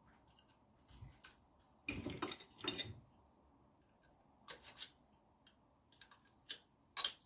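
Small metal fork parts clicking and clinking as a retaining clip is worked back into a motorcycle fork tube: scattered sharp clicks, with a busy cluster about two seconds in and a sharp click near the end.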